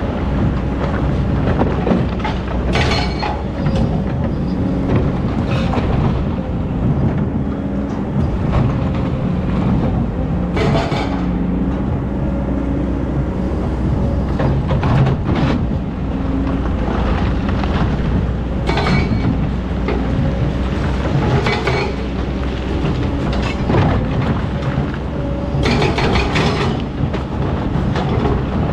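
Excavator's diesel engine running steadily under load, its pitch shifting as the hydraulics work. Sharp metallic clanks come every few seconds.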